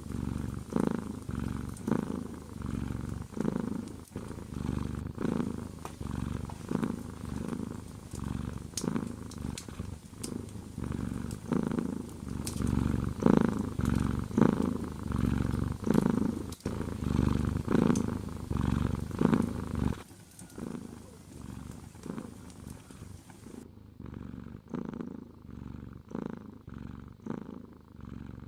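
Domestic cat purring close up, a low rumble that swells and fades about once a second with each breath, turning quieter about twenty seconds in. Faint sharp clicks sound over it now and then.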